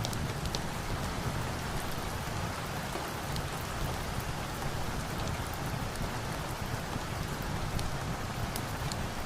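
Steady rain falling, with scattered sharp crackles from a wood fire now and then.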